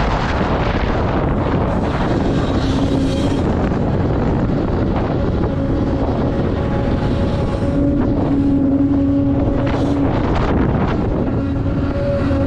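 Heavy diesel earthmoving machinery, a large excavator and articulated haul trucks, running hard, with a whine that comes and goes several times over the engine noise. Wind buffets the microphone.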